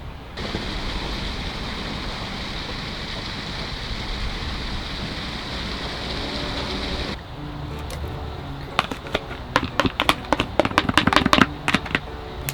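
Food sizzling steadily in a hot pan, cut off suddenly about seven seconds in, followed by a spatula clicking and scraping quickly against the pan. Soft background music runs underneath.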